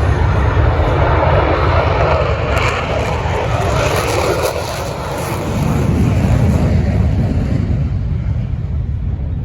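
Loud jet noise from an F-35A Lightning II's single afterburning turbofan as the fighter flies past. A rushing sound for the first half gives way to a deeper rumble, which eases off near the end.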